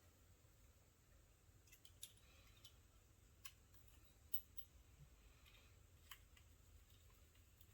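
Near silence broken by about seven faint, sharp clicks of metal parts being handled and fitted into a Peerless 206 transaxle case, the loudest a little past halfway.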